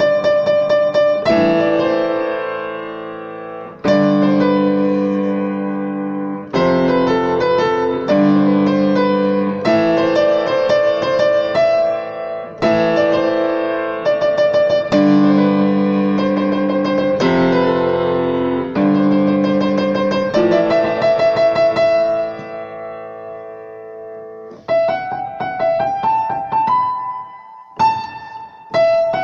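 Solo piano playing: full chords struck every couple of seconds and left to ring, with quick notes over them. It goes softer for a few seconds near the end, then lighter, higher playing comes in.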